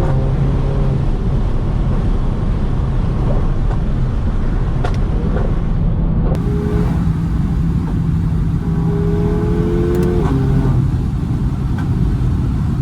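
Stage 2 tuned Mercedes-AMG GLA45's 2.0-litre turbo four-cylinder engine and exhaust running at a steady drone on the move, with a few sharp exhaust pops, near the middle and again around ten seconds in.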